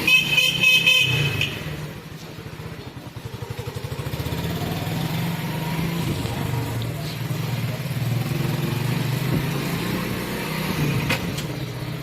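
Small motorcycle engine running as it is ridden, with a horn beeping in a quick run of pulses at the start. The engine note drops off about two seconds in, then picks up again from about four seconds in and runs on steadily.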